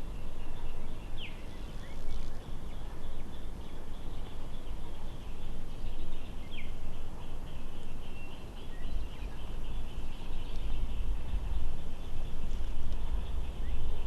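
Songbirds calling outdoors: a continuous high, fluttering twitter with a few short down-slurred whistles, about a second in, midway and at the end, over a steady low rumble.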